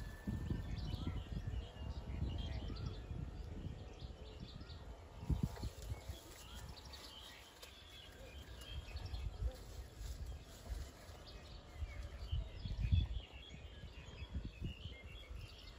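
Small birds chirping and calling over an uneven low rumbling noise, with two louder thumps, one about five seconds in and one near the end.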